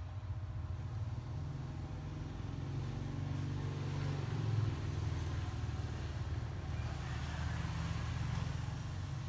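Low, steady engine-like rumble, as of a road vehicle running, swelling slightly about halfway through.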